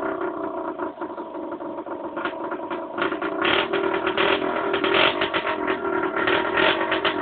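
Aprilia RS 50's small two-stroke single-cylinder engine running at a steady speed, with a dense, irregular mechanical clatter over its steady note; it dips slightly about a second in and picks up again after about three seconds.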